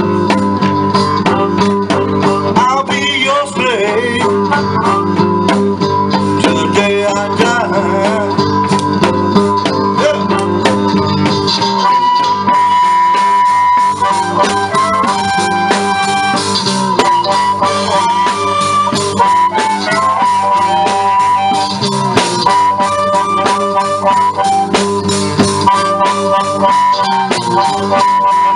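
Live blues music: an instrumental passage with guitar strumming a steady rhythm under a lead playing long held and bent notes, likely a harmonica.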